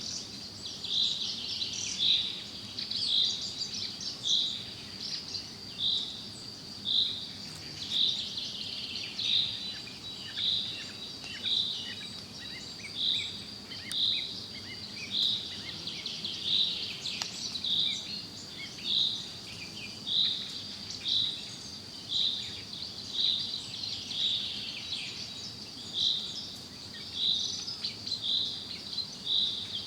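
Forest birdsong: a bird repeats a short high call about once a second over a steady high-pitched tone and faint background ambience.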